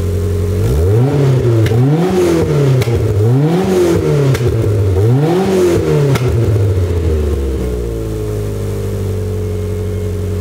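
AE86 Trueno's swapped-in AE111 4A-GE 20-valve four-cylinder engine, on individual throttle bodies with separate air filters, blipped from idle four times in quick succession. It drops back to a steady idle about two-thirds of the way through. Heard at the exhaust.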